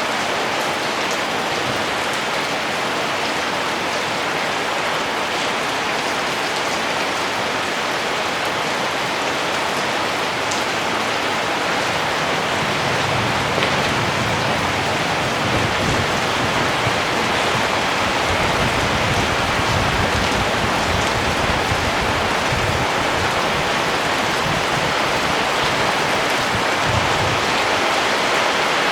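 Steady rain falling, an even hiss of many drops. About halfway through, a low rumble comes and goes underneath.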